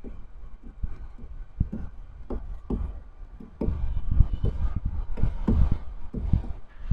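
A rapid, irregular series of dull knocks and thumps, denser and louder from about halfway through.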